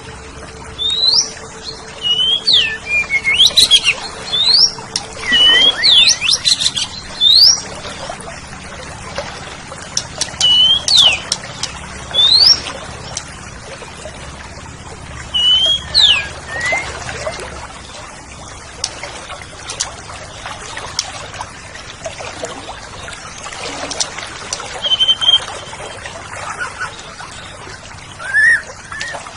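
Oriental magpie-robin (kacer) singing: phrases of clear whistled notes sliding up and down. The phrases come thick in the first dozen seconds and sparser later, over a steady hiss.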